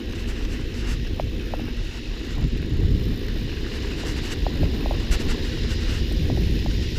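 Wind buffeting an action camera's microphone, with a heavy low rumble, as a mountain bike rolls along a dirt trail; faint scattered ticks sound over the top.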